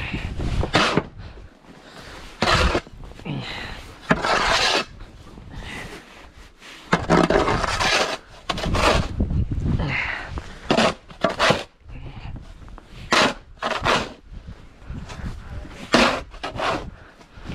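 Snow being scraped and crunched in irregular bursts, each up to about a second long, with no steady rhythm.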